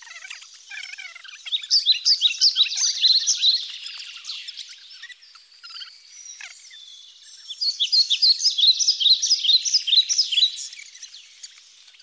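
Rapid high-pitched chirping of forest wildlife, in two dense bursts of about three seconds each with sparser chirps between.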